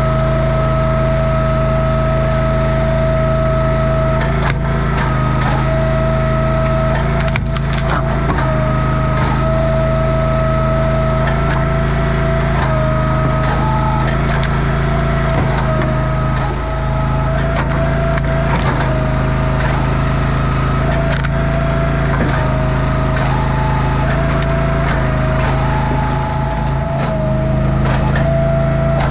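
A small engine runs steadily, dipping slightly in pitch every several seconds as it takes load. Over it, wood cracks and splinters again and again as firewood rounds are split.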